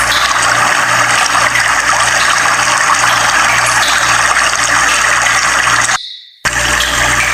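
Steady rushing water, with a low pulse repeating about twice a second beneath it. The sound cuts out abruptly for about half a second near the end, then resumes.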